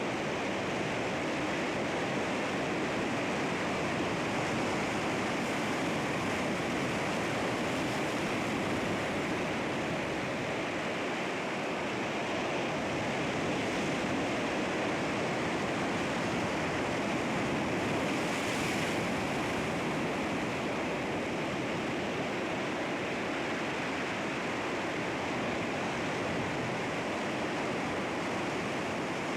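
Sea waves washing and breaking on rocks in a steady, continuous surf, with one slightly stronger surge a little past halfway.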